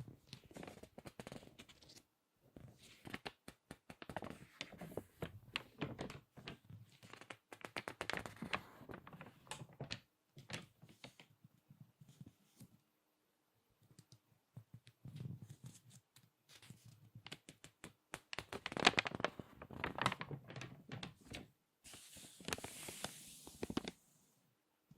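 Crinkly glossy magazine pages being turned and squeezed by hand: spells of dense crackling and rustling paper with short pauses between, the loudest squeeze about three-quarters of the way in, and a softer hissing rustle near the end.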